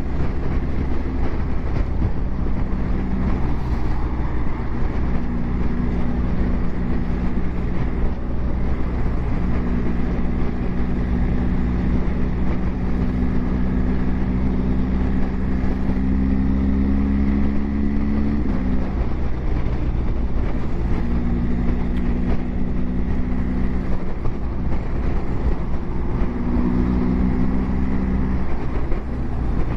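BMW GS Adventure motorcycle's boxer-twin engine running at road speed, heard under a heavy, steady wind rumble on the microphone. The engine note climbs slowly, drops sharply about 18 seconds in, and fades out briefly a couple of times.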